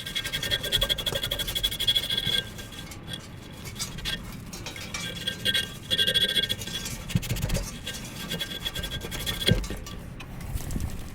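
Scraping and scratching on the sheet-metal parts of a dusty furnace, in rapid rasping bouts with short pauses and a couple of sharp knocks.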